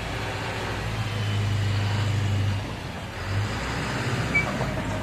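Engine of a truck-mounted sewer suction truck running steadily at a low pitch while it is manoeuvred backwards, easing off a little past halfway. A short high chirp sounds about four seconds in.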